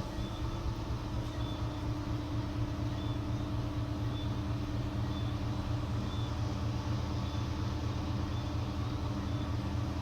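A steady low machine hum with a faint, short, high chirp repeating about once a second.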